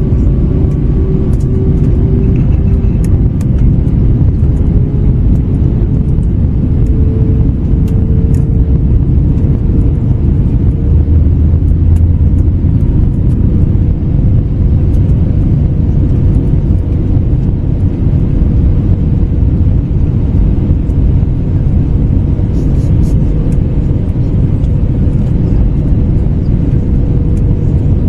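Airliner cabin noise aboard an Airbus A321neo with Pratt & Whitney PW1100G geared turbofans: a steady deep rumble of airflow and engines. An engine tone rises slowly in pitch over the first several seconds and then holds steady.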